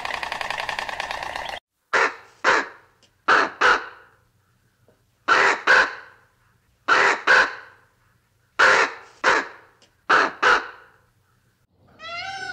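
A bird giving harsh, crow-like caws in pairs, six pairs in all, each pair about a second and a half after the last. Before them, a rapid buzzing sound cuts off abruptly about a second and a half in.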